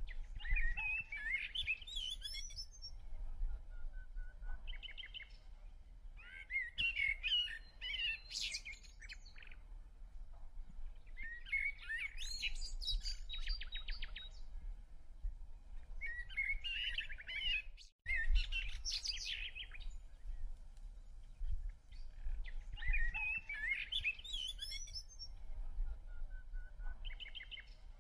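A songbird singing varied warbled phrases, each two to three seconds long, repeated about every five to six seconds, over a low rumble.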